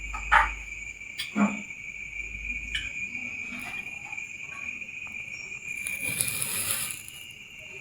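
A steady, high insect-like trill, with a few sharp clicks in the first three seconds and a brief hiss about six seconds in.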